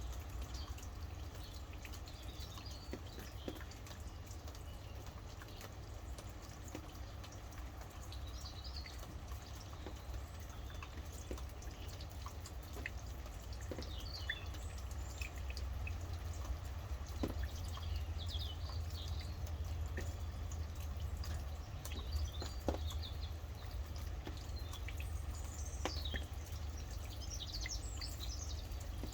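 Rain dripping with scattered individual drops over a steady low rumble, while small birds chirp now and then, more often near the end.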